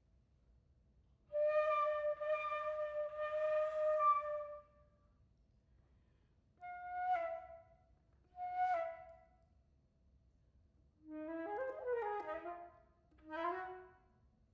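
Solo flute playing a contemporary piece. It holds one note for about three seconds with breathy air noise over it, then plays two short detached notes, then a quick flurry of changing pitches, then one more short note, with silences between the phrases.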